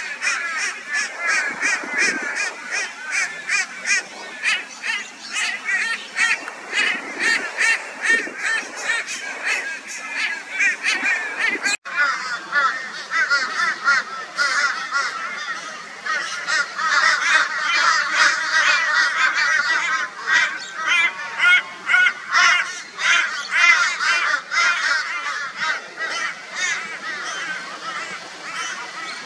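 A flock of crows giving loud, raucous calls over and over, many voices overlapping, as crows do when mobbing a barn owl. A brief break about twelve seconds in.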